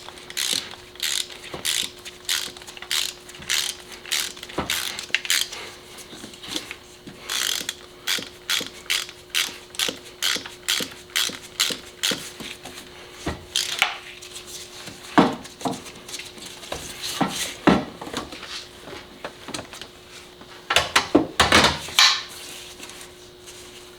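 Hand ratchet wrench clicking in short, even strokes, about two a second, as it works a fastener loose on a car engine. Further on the clicks grow sparser and louder, with a quick flurry near the end.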